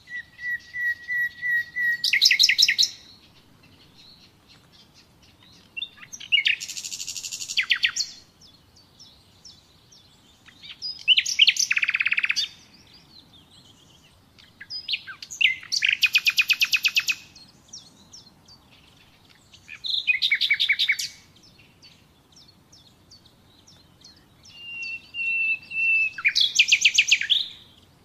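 Common nightingale singing six separate song phrases of two to three seconds each, with short pauses between them. The phrases are built from rapid repeated notes and fast trills. The first and the last open with a run of steady whistled notes that builds into a loud trill.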